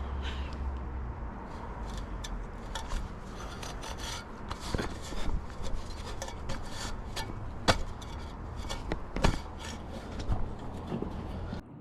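Hand scrubbing and scraping on furnace parts being cleaned: irregular rubbing strokes with scattered sharp knocks, the two loudest about two-thirds of the way through. It stops abruptly near the end.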